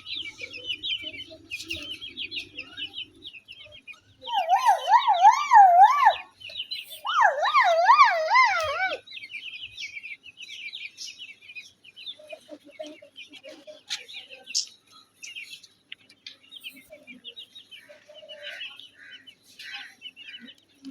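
Chicks peeping rapidly and continuously, with an Aseel hen clucking low in the first few seconds. About four and seven seconds in come two loud warbling calls, each about two seconds long, whose pitch wavers up and down several times.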